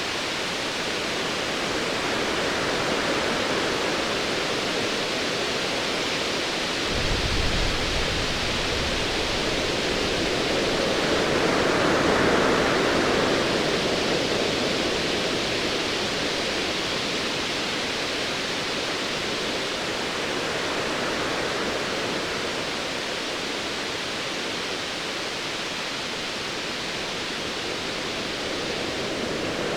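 Ocean waves washing in a steady hiss, swelling to a surge about twelve seconds in, with a short low rumble of distant thunder about seven seconds in.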